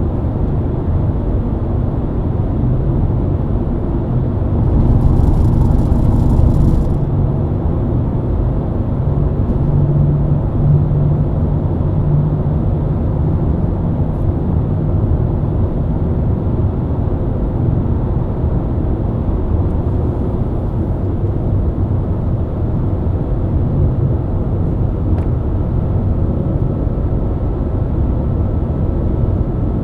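BMW E90 323i's inline-six engine running at a steady cruise, with tyre and road noise under it. A short burst of hiss comes about five seconds in, and the engine tone strengthens briefly around ten seconds.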